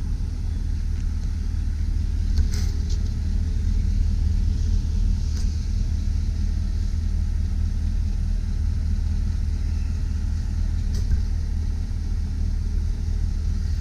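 2005 Chevrolet Silverado 2500 HD pickup's engine idling steadily, with a few faint clicks.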